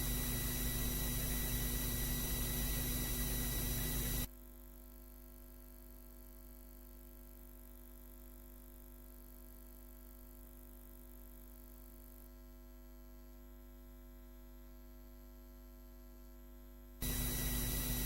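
Steady electrical mains hum with hiss from the recording chain. About four seconds in it drops suddenly to a much fainter hum, and it comes back at the earlier level about a second before the end.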